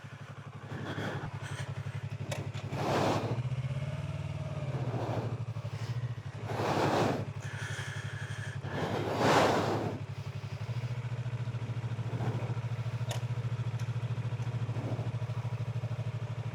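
Sportbike engine running at low revs with a steady low drone as the bike is eased slowly through a stream crossing. Four brief rushing swells of noise come over it.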